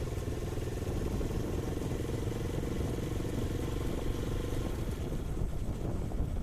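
Hero Honda Karizma's 223cc single-cylinder engine running steadily while the motorcycle is ridden.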